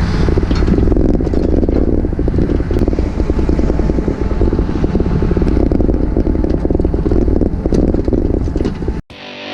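Takeuchi TB153FR compact excavator's diesel engine running steadily, with dense clatter over it. It cuts off abruptly about nine seconds in, and distorted electric-guitar music starts.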